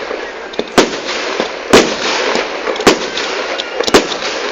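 Fireworks exploding at a display: four loud bangs about a second apart, with fainter crackling pops between them.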